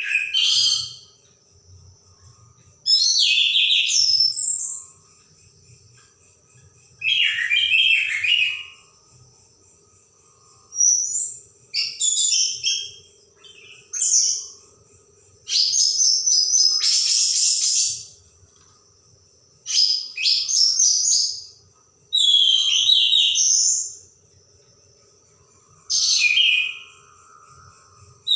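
Orange-headed thrush (anis merah) singing in full voice: about ten high, varied phrases of one to two seconds each, with short pauses between them. A faint steady high tone and a low hum run underneath.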